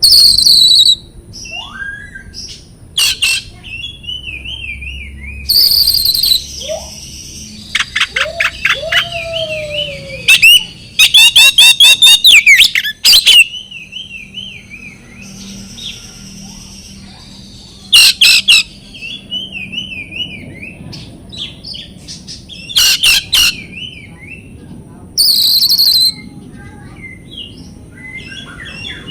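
Oriental magpie-robin (kacer) singing a loud, varied song: harsh rasping bursts every few seconds, alternating with rapid trills, whistled slurs and a zigzagging warble. It is the fierce, energetic kind of song played as bait to provoke silent or stressed magpie-robins into answering.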